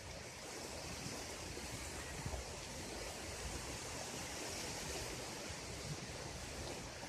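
Sea waves washing on a sandy beach, a steady surf noise, with wind buffeting the microphone.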